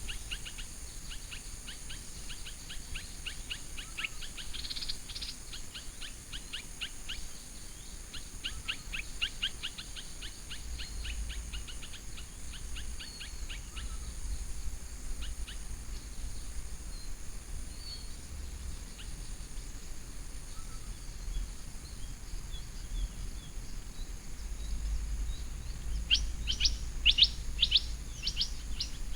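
Small birds chirping in rapid runs of short, high notes, thick at first, thinning out in the middle and returning louder near the end. Behind them a steady high-pitched tone and a low rumble that swells now and then.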